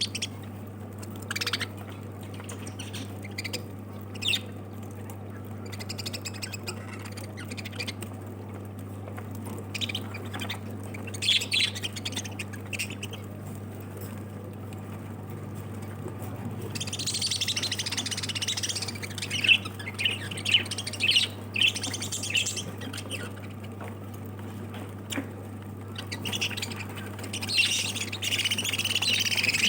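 Pet lovebirds calling: scattered sharp squawks and chirps, building into bursts of flock chatter about halfway through and again near the end.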